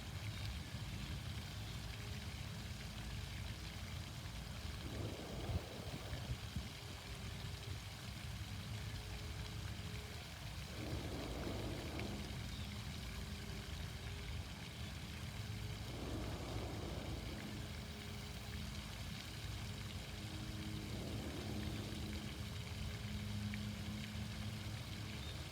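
Outdoor fountain water splashing steadily under a faint low hum, with slow deep breaths about every five seconds.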